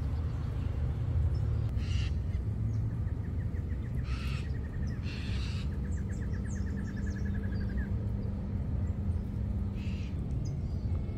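A bird trilling in the background: a long run of quick, even notes lasting about five seconds. Under it is a steady low rumble, and a few short scratchy noises come and go.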